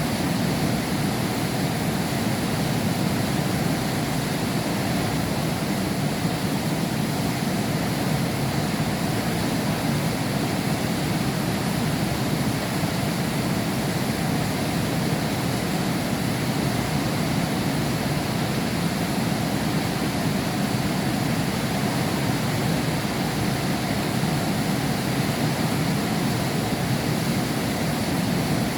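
Heavy rain falling steadily, heard from behind window glass: an even, unbroken wash of noise with no thunder or other distinct sounds.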